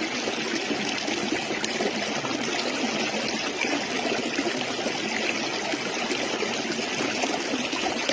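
Water running steadily in a stream, an even trickling rush with no pauses.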